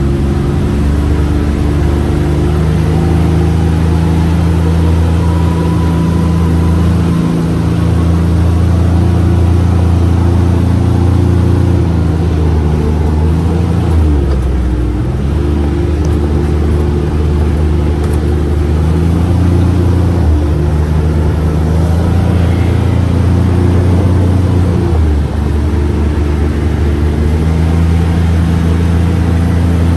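Four-seat UTV's engine running steadily while driving, its pitch shifting up and down a few times as the throttle and load change.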